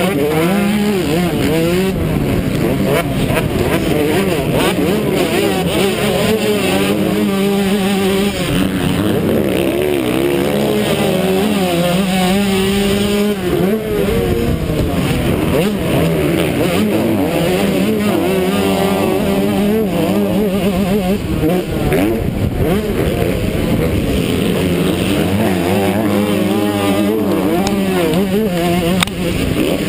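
125cc two-stroke motocross bike engine, heard from a camera mounted on the bike, revving hard under racing load, its pitch climbing and dropping over and over through throttle and gear changes.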